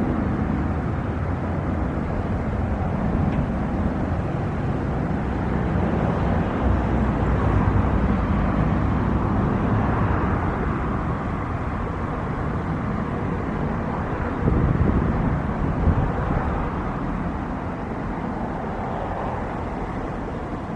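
Jet airliner engine noise, a steady rush that grows louder toward the middle and eases off near the end.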